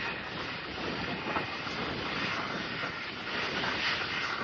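Airbus A320 airliner's jet engines heard as a steady rushing roar as the plane arrives, swelling slightly near the end.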